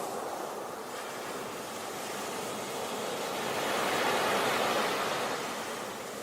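Sea waves washing onto a beach: a steady surf rush that swells to a peak about four seconds in and then eases off.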